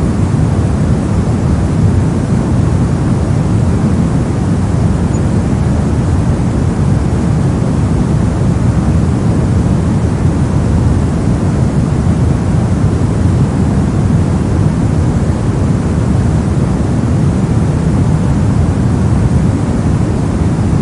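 Steady soft-noise track: an even, unbroken hiss with most of its weight low down and little treble, unchanging throughout.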